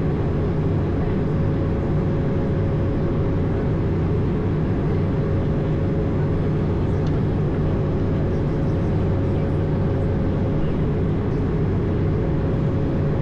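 Steady engine and airflow noise aboard an Airbus A220 in flight, from its Pratt & Whitney geared turbofans. It is a constant rushing drone with a low hum and a fainter higher tone held at one pitch.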